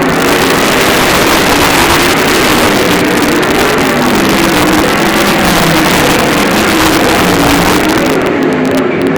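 Several sprint car engines running loud at racing speed, their pitch wavering up and down as the cars go around the track.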